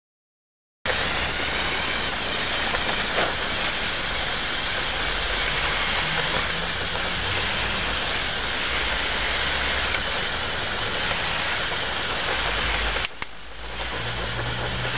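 Silent for the first second, then the remote-controlled Lego trial truck's electric motors and gearing run steadily under a hiss, with a low hum. The sound drops out briefly about thirteen seconds in and resumes with a stronger low hum.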